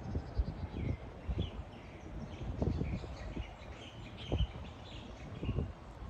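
Birds chirping in short, scattered calls, over irregular low thumps.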